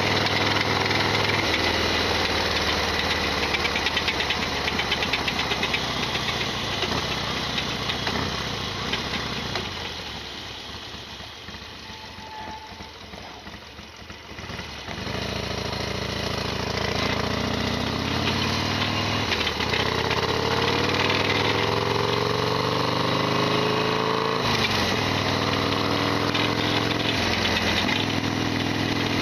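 Modified Harley-Davidson XL1200R Sportster V-twin running on the road, with the rattling that the owner complains of. It eases off and goes quieter for a few seconds, then pulls again with the pitch rising, and a gear change comes about three quarters of the way in.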